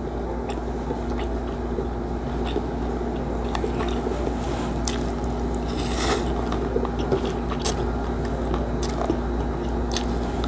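Close-miked chewing and wet mouth sounds of a person eating rice, fried milkfish and coconut-milk vegetables by hand, with scattered small clicks and a louder wet smack about six seconds in.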